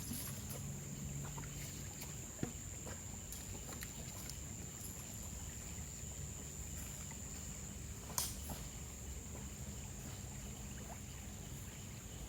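Steady low rush of flowing river water with a thin, steady high-pitched tone above it, broken by two short sharp knocks about two and a half and eight seconds in.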